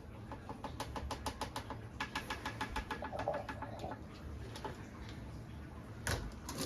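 Rapid, regular clinking of a utensil against a bowl, about seven strokes a second for a few seconds, as the replacement-milk ingredients are stirred together. A single knock sounds near the end.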